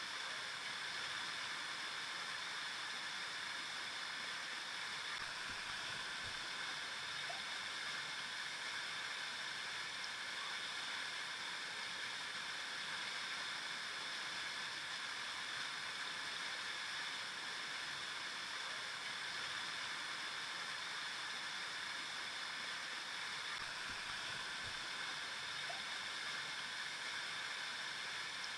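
River water flowing and gurgling over rocks: a steady rushing sound that does not change.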